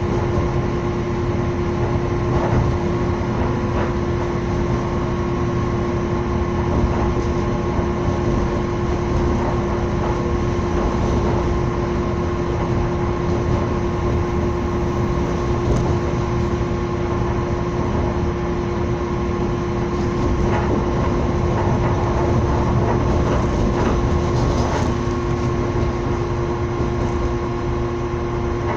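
Passenger train running at speed, heard from on board: a steady rumble of the wheels on the rails with a constant hum and a few faint clicks.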